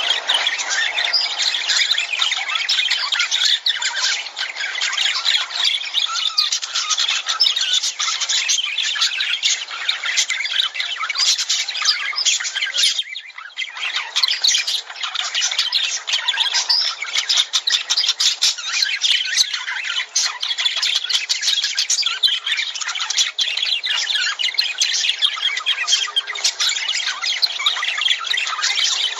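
A flock of lovebirds chattering and squawking nonstop in dense, overlapping shrill calls, with a brief lull about thirteen seconds in.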